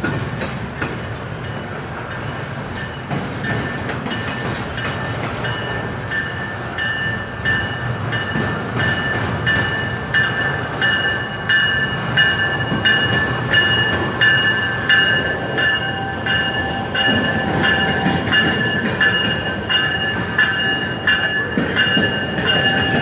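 Double-stack intermodal freight train rolling past, its wheels clicking over the rail joints in a steady rhythm over a continuous rumble. A steady high-pitched squeal rides on top and grows stronger as the train goes by.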